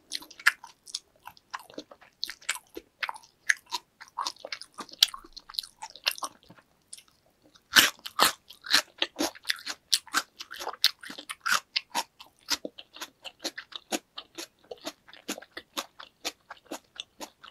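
Close-miked chewing of salmon sushi: quick wet mouth clicks and smacks, with a short lull about seven seconds in, after which the chewing comes back louder and denser.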